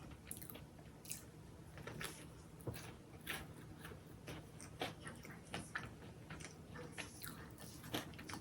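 A person biting and chewing food close to the microphone: irregular crisp crunches and wet chewing noises, several a second at times.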